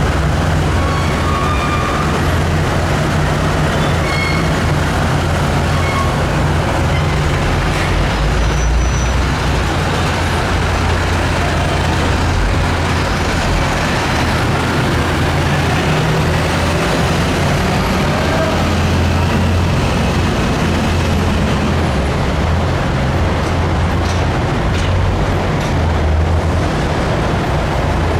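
Heavy fire-engine diesel engine running, with steady road and traffic noise.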